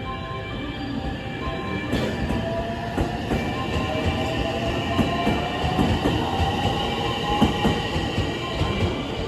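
Electric Marine Liner rapid train pulling out of the station, its traction motors giving a slowly rising whine as it picks up speed, over the rumble and clatter of the wheels on the rails.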